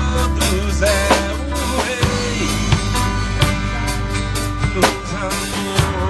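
Christian worship music played by a band: a drum kit keeping a steady beat over sustained bass notes, with a wavering melodic line above.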